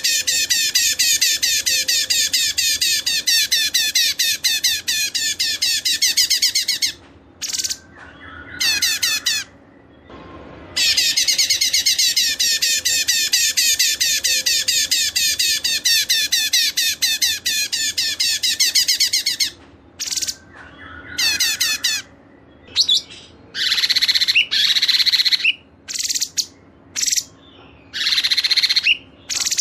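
A caged songbird singing in long, fast, high-pitched trills: two unbroken bouts of about seven seconds each, then shorter bursts with pauses between them.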